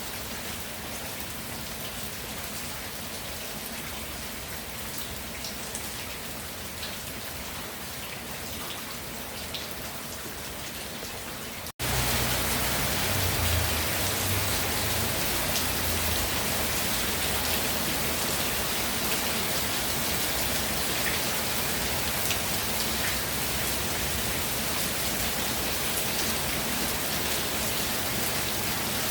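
Steady rainfall with scattered drop ticks. About twelve seconds in, the sound cuts out for an instant and returns noticeably louder and fuller, staying that way.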